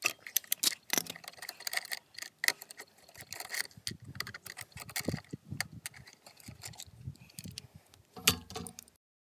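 Irregular clicking and jangling of small hard objects being handled, with a few duller knocks in between; it cuts off suddenly near the end.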